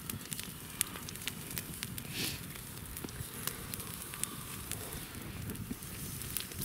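Wood campfire crackling, with sharp irregular pops and snaps over a low steady hiss.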